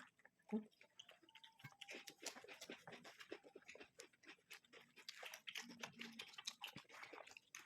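Faint chewing of fried rice, with soft irregular mouth smacks and clicks.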